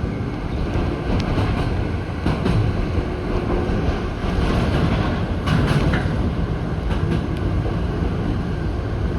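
Toyama Chihō Railway electric train running along the line: a steady rumble of wheels on track, with a few sharp clicks as it passes rail joints.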